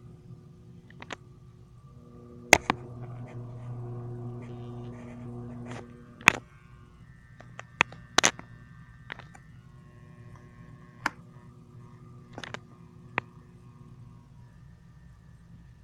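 Bladeless box fan motor running with a steady electric hum and buzzing vibration, the hum louder between about two and six seconds in. Sharp clicks and knocks come through now and then, about eight in all.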